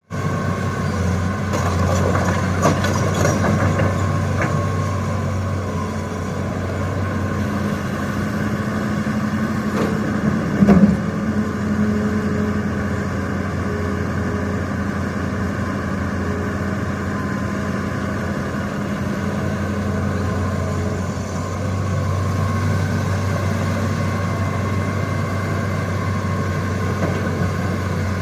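Excavator's diesel engine running steadily, with a single loud knock about eleven seconds in.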